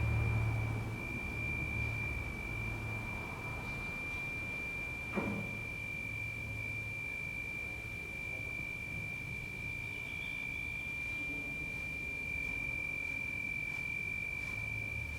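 A steady high-pitched pure tone, held without a break, over a low rumble, with one short knock about five seconds in.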